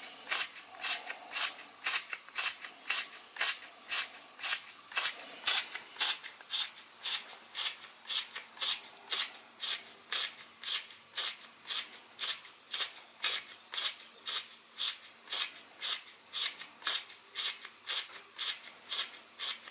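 Toy steam engine chuffing steadily under the load of a Baker fan, about two and a half hissing exhaust beats a second. A faint steady hum comes in about six seconds in.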